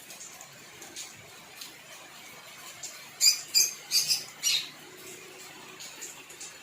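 Pet pink-necked green pigeon (punai daun) giving a quick run of about five short, high-pitched squeaks near the middle, with faint ticks around them.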